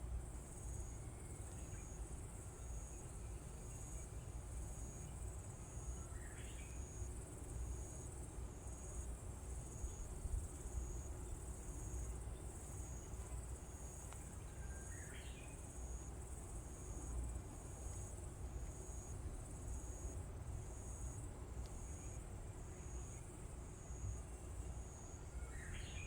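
Insects, cricket-like, calling with a steady, regular high-pitched pulsing. A brief rising call cuts through three times, about 6, 15 and 25 seconds in.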